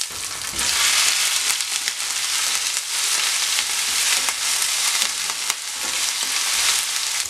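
Minced ginger sizzling in hot sesame (gingelly) oil with mustard seeds in a frying pan, stirred with a wooden spatula. The steady hiss fills out about a second in.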